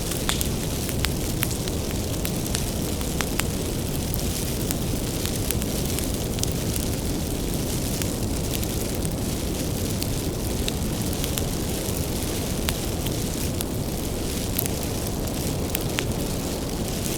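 Bonfire of firewood burning steadily: a low rumble of flame with frequent sharp, irregular crackles and pops from the burning wood.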